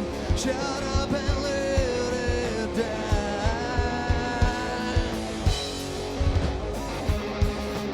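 Live rock band playing a song: a steady drum beat under electric guitar, with singing.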